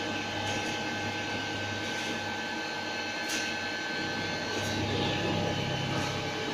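Workshop machinery running steadily: a constant drone with a fixed high whine and a low hum, a few faint ticks, and a slight swell in the noise about five seconds in.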